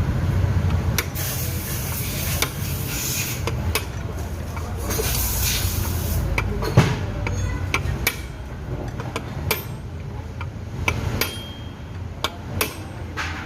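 Hammer knocking a bearing into a scooter's CVT gearbox casing: a dozen or so sharp, irregular metal knocks, with a stretch of rubbing noise in the first half.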